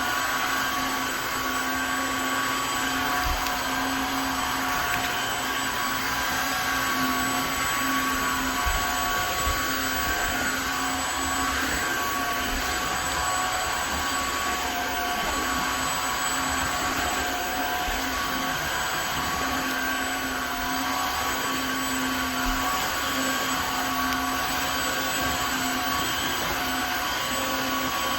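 Tineco Floor ONE S5 cordless wet-dry vacuum mop running steadily at work on a hard floor: an even rush of suction with a constant motor hum and whine in several held tones.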